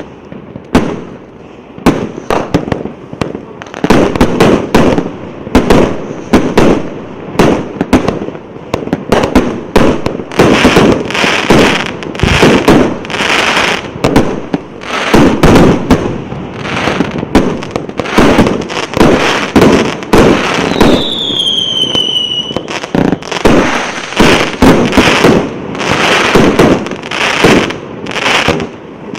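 A 30-shot firework cake of 1- and 1.2-inch tubes firing shot after shot in quick succession, each launch followed by a bang. About twenty-one seconds in, a single falling whistle sounds.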